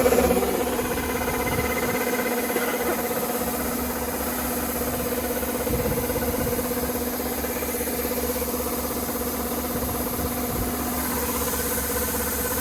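Kubota ER470 combine harvester's diesel engine running steadily, a louder tone dying away in the first half second.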